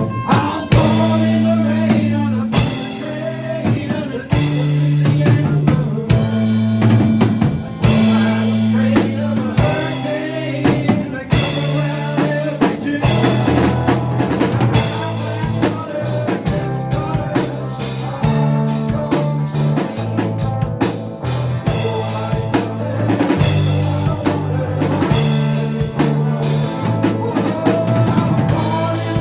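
Band playing an instrumental break with no singing: drum kit with snare and rimshots, bass guitar holding low notes, and a guitar line with bending notes over it.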